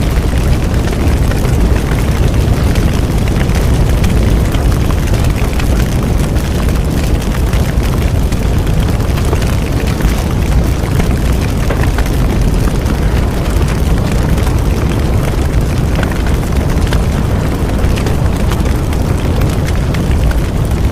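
Bonfire burning: a steady low roar of the flames, with frequent small crackles and pops from the burning wood.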